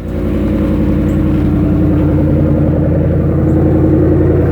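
2017 Dodge Ram 1500's 5.7 Hemi V8 idling steadily, warming up after a cold start in single-digit temperatures.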